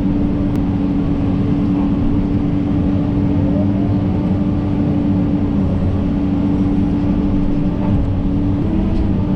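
John Deere 130G excavator running steadily, a low diesel rumble under a strong steady whine, with the pitch briefly rising slightly near the end.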